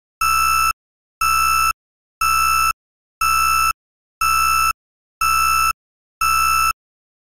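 Electronic beep repeating about once a second, each beep about half a second long at one steady high pitch, seven beeps in all.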